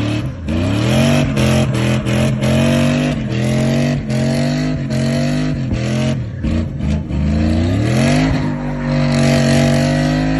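A pickup truck engine revved hard in a burnout pit. The pitch climbs quickly and falls back over and over, then is held high for a couple of seconds near the end, over a loud rushing noise.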